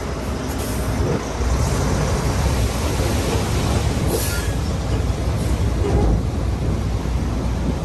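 Heavy earthmoving machinery running under load: a steady low diesel rumble with metallic grinding, and a brief high squeal about four seconds in.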